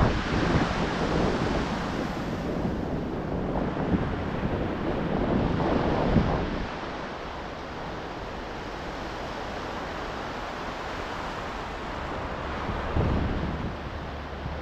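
Ocean waves breaking and washing in, with wind buffeting the microphone. The surf is louder for the first half, then settles to a steadier, quieter wash, with another surge near the end.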